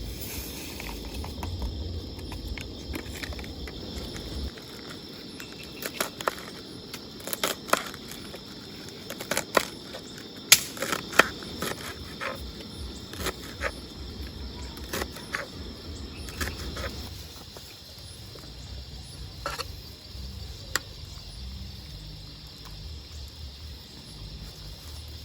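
Outdoor ambience with a steady high insect chirring, broken by scattered sharp clicks and knocks, the loudest about ten seconds in.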